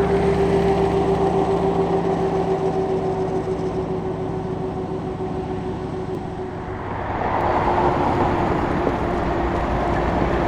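Type 10 main battle tank driving past: diesel engine running with its tracks clattering on the road, carrying a steady whine. The sound eases slightly, then grows louder again about seven seconds in.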